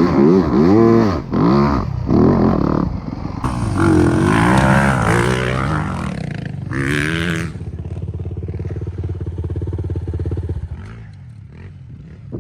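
Dirt bike engine revving hard in quick rises and falls, then running at a steadier pitch for a few seconds before dropping away near the end.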